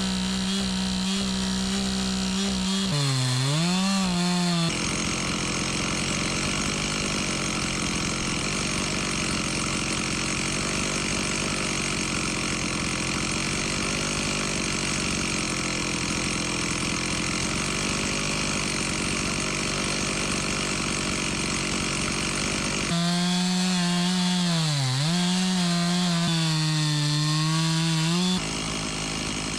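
Two-stroke chainsaw cutting into a large log, its engine note dipping and recovering as the chain bogs down in the wood, with a steadier stretch of cutting in between.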